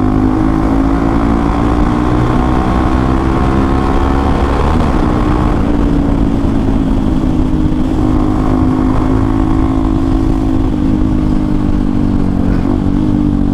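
Hero XPulse 200 4V's single-cylinder engine running through an Akrapovic exhaust with the dB killer removed, at fairly steady revs while riding, easing off slightly a few times.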